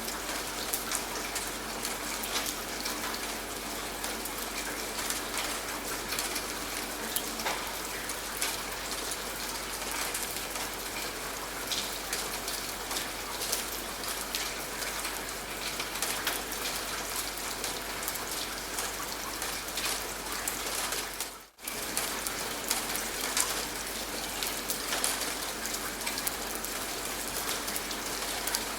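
Steady rainfall, with many individual drops striking a surface close by. The sound cuts out for a split second about three quarters of the way through, then carries on unchanged.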